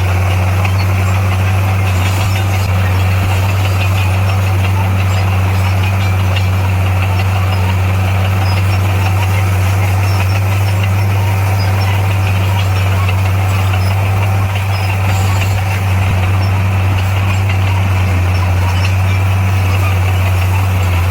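A heavy earthmoving machine's engine running at a steady speed, a deep, even drone without changes in pitch, with a brief dip in loudness about two-thirds of the way through.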